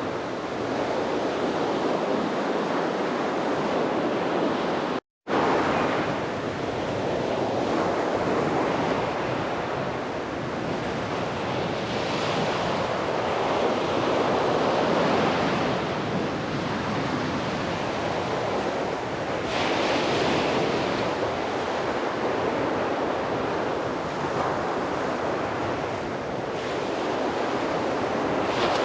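Sea waves breaking and washing up a beach: a steady surf that swells and eases every few seconds. The sound cuts out completely for a split second about five seconds in.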